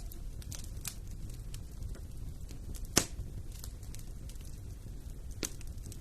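Wood fire in a fireplace burning, with a low steady rumble and scattered crackles, and one sharp loud pop about halfway through.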